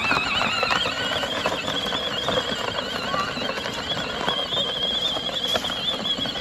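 The electric drive motors of a battery-powered ride-on toy car whine as it drives along. The pitch rises at the start, then holds a high, slightly wavering whine.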